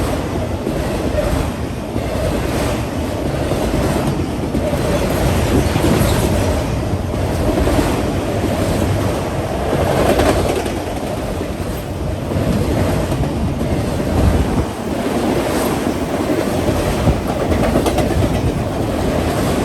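Railroad cars of a passing train rolling by on the rails, with a steady rumble and repeated clickety-clack of the wheels.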